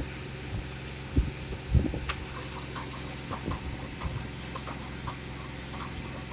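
An engine idling steadily, with a few scattered clicks and knocks over it, the loudest two between one and two seconds in.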